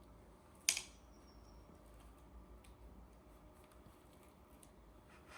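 A single sharp click under a second in, followed by a few faint small ticks over quiet room tone.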